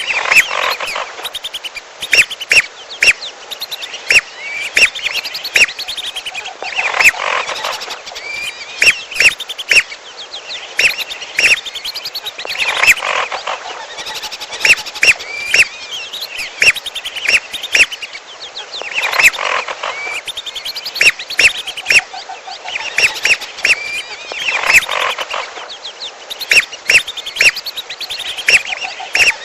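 Bird-lure recording of whistling duck (belibis merah) whistles mixed with the calls of a second bird, the piolo: runs of sharp, clicky notes and clustered whistled calls. The mixed sequence repeats in a loop about every six seconds.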